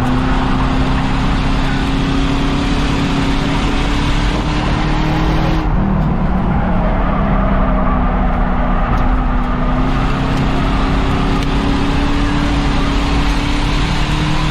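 Ford Crown Victoria race car's V8 engine running hard on the oval, its pitch climbing slowly, dipping about six seconds in as the throttle eases, then climbing again, over loud wind and tyre noise.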